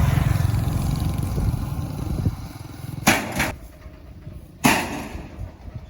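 An engine running close by with a low, pulsing rumble that fades away about two seconds in, followed by two short, loud swishing bursts about a second and a half apart.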